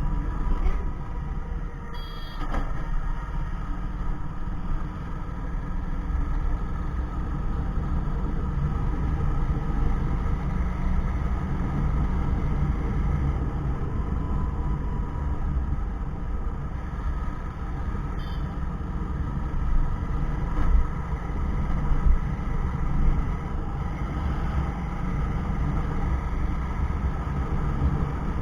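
Motorcycle running steadily on the road with a heavy wind rumble on the microphone.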